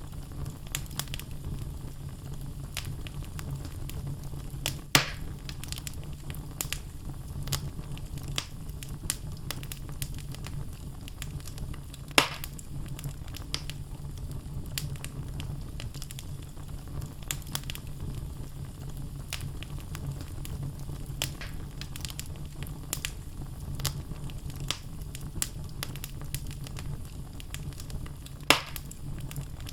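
Wood fire burning in a fireplace: logs crackling with frequent small snaps over a steady low rumble. Three louder pops stand out: about five seconds in, about twelve seconds in, and near the end.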